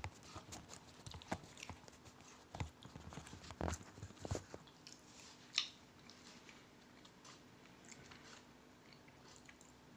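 A person chewing macadamia-nut chocolate close to the microphone: a run of short crunches and wet clicks, the loudest about five and a half seconds in, then fainter.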